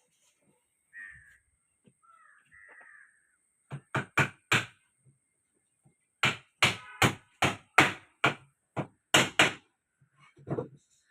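Crow cawing in repeated harsh calls: a quick group of three, then a longer series of about eight after a short pause. Faint small-bird chirps come first.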